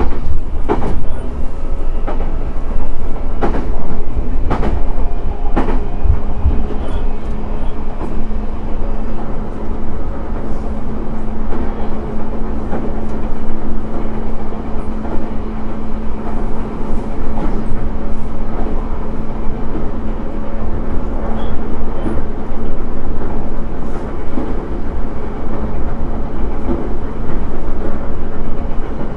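Cabin running sound of a JR East E131-600 series electric train at speed: a steady low rumble of wheels on rail, with four sharp clicks over rail joints in the first six seconds. A steady low hum comes in about six seconds in and holds to near the end.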